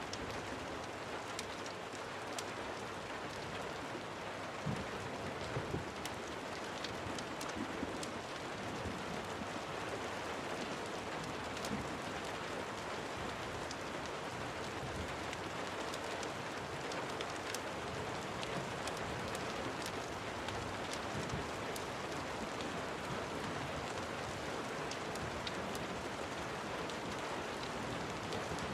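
Steady rain falling, with scattered sharp ticks and a few soft thumps.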